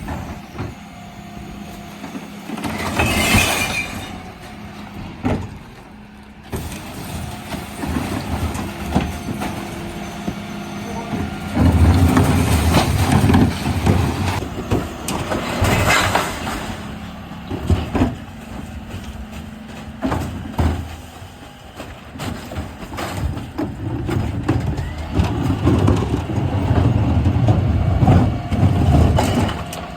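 Dennis Elite 6 refuse truck at work on a recycling collection: the engine runs throughout, with two sharp air hisses about 3 and 16 seconds in and louder stretches of mechanical working noise in the middle and near the end.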